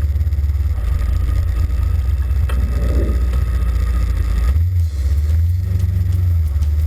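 Kawasaki KLE 500 parallel-twin motorcycle engine running under way with a steady low drone; the engine note shifts up slightly a little past halfway.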